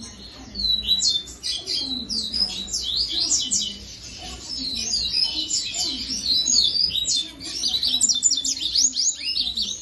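Coleiros (double-collared seedeaters) singing and chirping in a dense, continuous run of quick high notes, with a breeding male and a female put together for mating.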